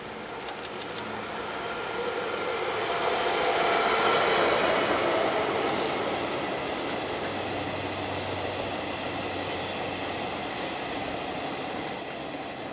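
Diesel locomotive hauling an unpowered E6 series Shinkansen trainset past on conventional track: engine and rolling wheels swell to loudest about four seconds in as the consist goes by. A steady high-pitched whine comes in after about nine seconds and grows toward the end.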